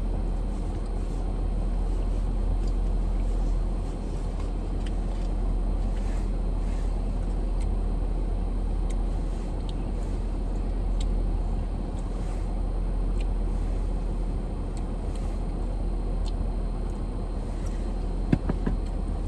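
Steady low hum of a car idling, heard from inside the cabin, with faint scattered small clicks and a brief knock near the end.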